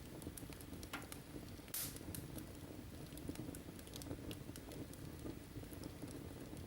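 Wood fire crackling: scattered small clicks, with a louder pop a little under two seconds in, over a low steady rumble.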